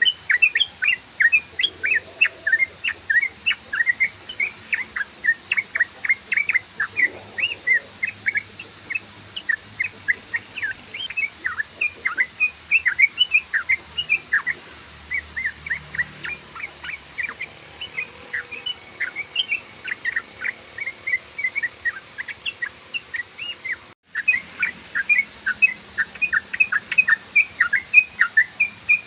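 Yellow-vented bulbul (trucukan) singing its rapid 'ropel' song: a continuous run of short bubbly chirps, about four to five a second, with a brief break about 24 seconds in.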